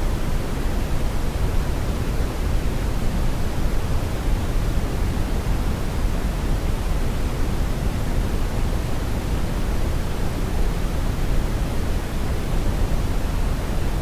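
Steady brown noise: an even, deep rushing hiss, strongest in the bass and rolling off toward the treble, with no change or events.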